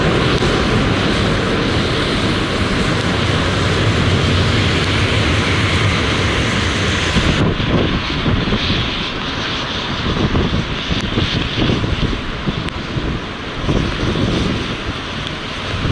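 Jet airliner's engines rushing loudly as it lands. About halfway through this gives way to gusty wind buffeting the microphone.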